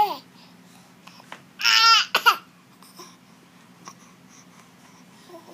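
An 8-month-old baby's gravelly monster-like growling vocalisations: a loud half-second one about one and a half seconds in, then a shorter one just after, with a brief falling sound at the very start.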